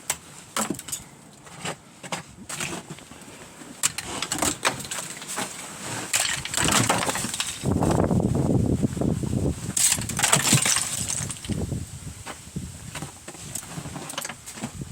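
Icicles being struck and broken off: a run of sharp cracks, knocks and clinks of ice, with a louder, rough crashing stretch about halfway through.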